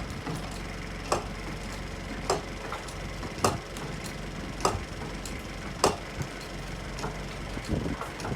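Sharp clicks at an even pace, about one every 1.2 seconds, over a steady engine idle, as force is put on a semi-trailer's bent landing-gear leg to straighten it.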